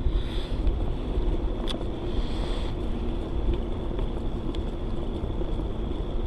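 Steady low rumble of wind and riding noise on an action camera's microphone while cycling along a paved trail.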